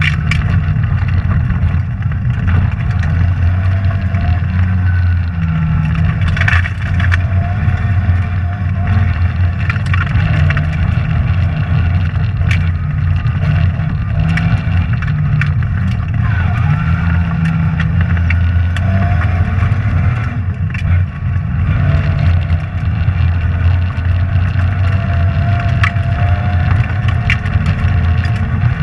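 Rally car driven hard on a forest stage, its engine note rising and falling with the throttle and gear changes, with scattered sharp clicks and knocks of gravel and stones striking the car.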